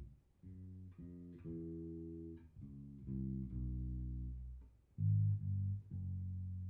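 Electric bass, tuned a half step down, played through a Fender Rumble 100 V3 bass combo amp. A short run of plucked notes comes first, then two louder low notes about five seconds in, and a final low note is left ringing.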